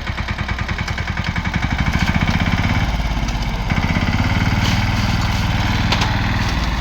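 Swaraj 717 mini tractor's single-cylinder diesel engine running, picking up speed about two seconds in and again about halfway through.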